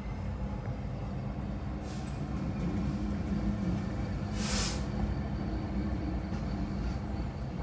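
Freight train rolling through a level crossing: a steady low rumble and engine drone from the train, with a short burst of hiss about four and a half seconds in.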